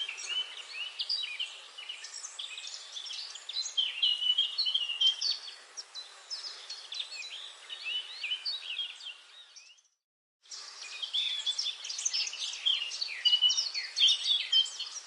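Forest bird chorus: many birds chirping and trilling in quick, overlapping calls over a steady background hiss. The sound cuts out completely for about half a second roughly two-thirds of the way through, then resumes.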